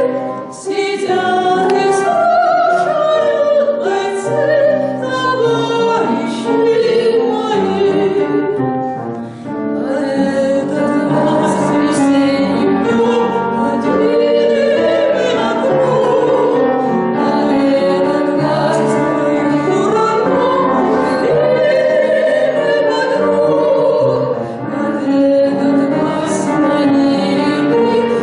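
Two women singing a slow waltz song as a duet, in a classical operatic style with vibrato, accompanied by piano.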